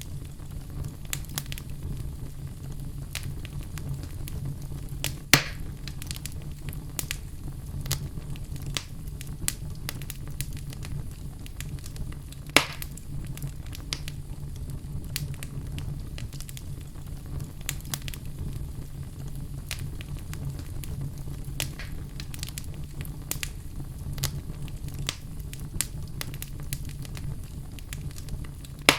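Fire crackling: many small scattered pops over a steady low rumble, with two louder pops, one about five seconds in and one about twelve seconds in.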